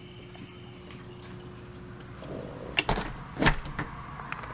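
A steady low hum, then handling noises with two sharp knocks about three and three and a half seconds in, followed by a few lighter clicks.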